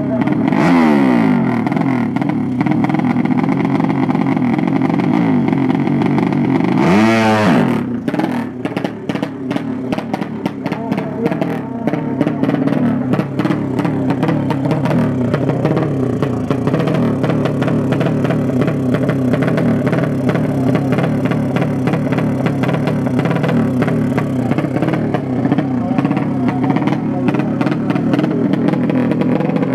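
Racing motorcycle engines running and being revved, with a loud pass-by about seven seconds in, the pitch sweeping sharply, and falling engine notes near the start and end.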